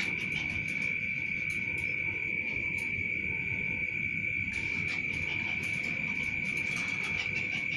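Insect giving a steady, unbroken high-pitched trill on one pitch, over a low rumbling background noise.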